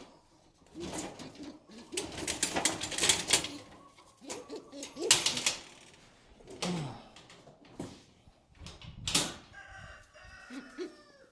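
Chickens clucking, with a rooster crowing near the end, over bursts of rustling and clattering.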